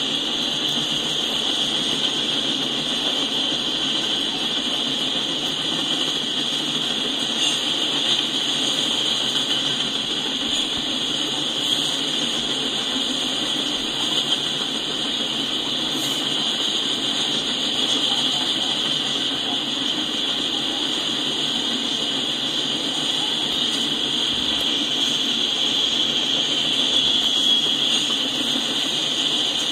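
Freight cars rolling past on the track: a steady rumble of steel wheels on rail under a continuous high-pitched hiss, with a few faint knocks from the passing cars.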